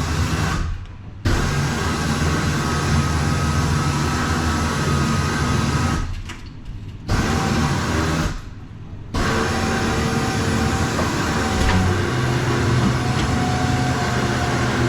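A motor running steadily with a low drone, heard in several pieces with three brief sudden drops in level between them.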